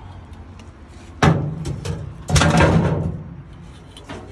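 Two heavy metal bangs about a second apart, the second ringing on for about a second.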